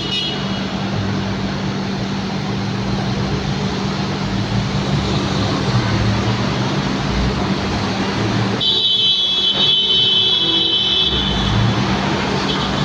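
Steady engine noise with a constant low hum, joined by a high whine for about two seconds a little past the middle.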